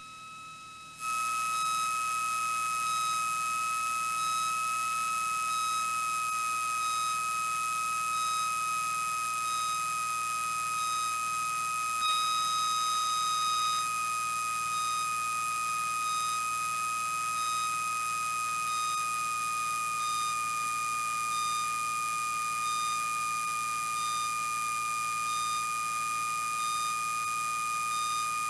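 A steady high-pitched electronic whine over hiss in a light aircraft's cockpit audio feed, drifting slightly lower toward the end. A fainter short beep repeats about every 1.3 seconds.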